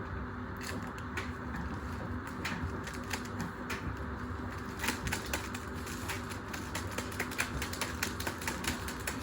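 Washing machine running with loose hard objects rattling and clattering inside its drum: many irregular sharp clicks and knocks over a steady low motor hum.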